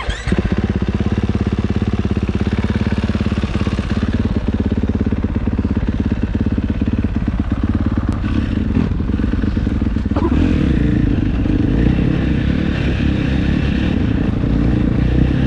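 KTM 450 dirt bike's single-cylinder four-stroke engine running loud and close. It comes in abruptly at the start and grows louder and deeper about ten seconds in.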